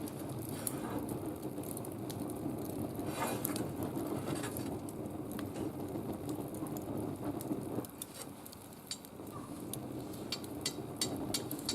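Wood fire crackling and hissing, with scattered sharp pops over a steady hiss.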